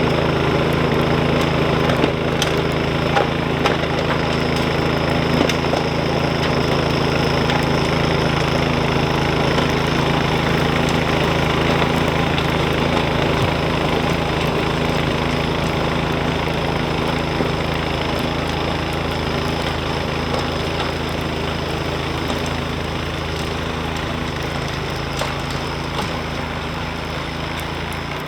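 Snowblower's small engine running steadily, its sound slowly fading over the last several seconds.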